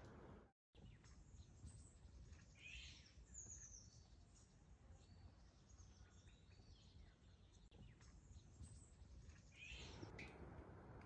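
Faint songbird calls in woodland: scattered short chirps and a few quick falling notes over a low, steady background hiss.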